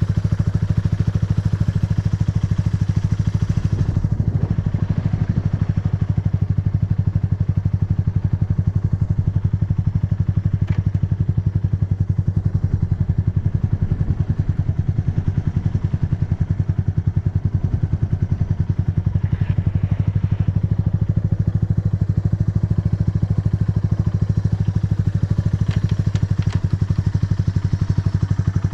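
Yamaha TW200's air-cooled single-cylinder four-stroke engine idling steadily, with an even, fast exhaust pulse and no abnormal noises, which the seller gives as the sign of a sound engine.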